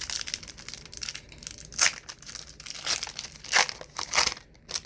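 Paper trading card pack wrapper crinkling and tearing as it is opened by hand, in irregular bursts with several louder rips.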